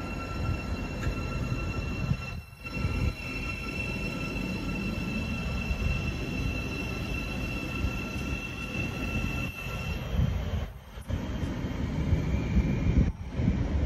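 Thameslink Class 700 electric multiple unit moving slowly along the platform, a continuous low rumble with a steady high whine that stops about ten seconds in.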